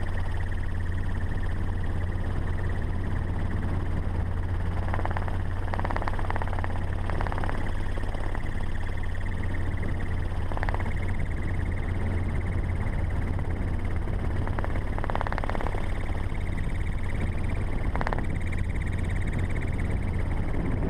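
Ford Raptor pickup driving fast on a dirt road, heard from on board: a steady low drone of engine and tyres, with a few brief sharper sounds, knocks or squeaks, scattered through it.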